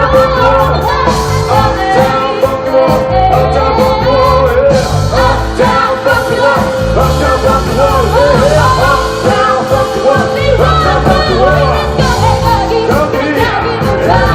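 Band music with a singer's voice over a steady bass line and drum beat.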